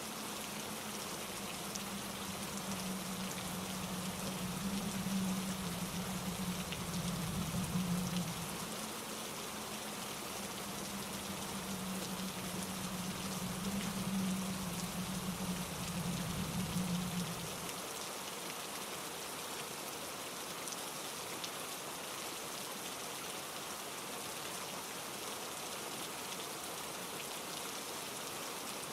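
Steady rain falling, an even hiss of drops. Under it, a low rumble swells and fades several times, then stops about two-thirds of the way through.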